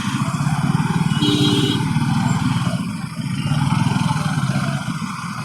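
Motorcycle engine running under the rider, the throttle opening and easing so the sound swells twice. A brief tone sounds about a second in.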